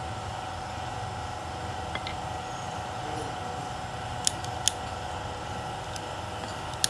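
Toyota Corolla GLi engine idling with a steady hum, broken by three sharp metallic clicks: two close together about halfway and one near the end.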